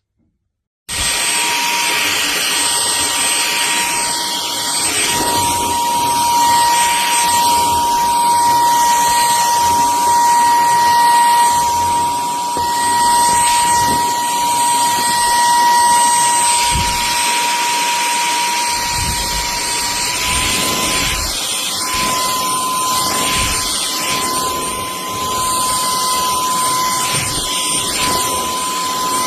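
Cordless stick vacuum's motor switching on about a second in and running steadily with a loud rush of air and a high-pitched whine; the whine steps slightly higher about two-thirds of the way through.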